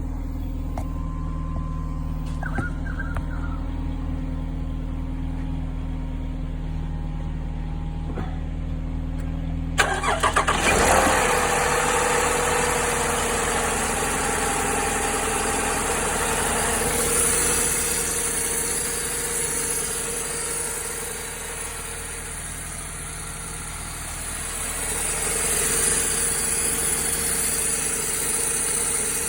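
A steady low hum, then about ten seconds in a Toyota Aurion's V6 engine is cranked with a few clicks and catches on a cold start. It keeps running at a steady idle with a continuous rattle, a little quieter for a few seconds past the middle before picking up again.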